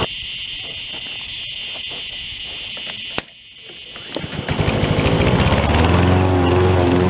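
Lawn mower engine sound cuts off suddenly, leaving a thin steady hiss. A sharp click about three seconds in, then the engine starts and rises in speed to a steady run over the last couple of seconds.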